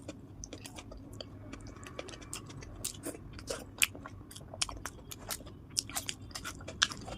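A person chewing a mouthful of luchi and ghugni close to the microphone, with many small, irregular, sharp mouth clicks.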